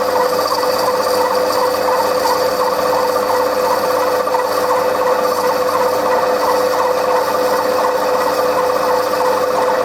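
Metalworking lathe running with a steady whine and a rasping cut as a brass insert is turned.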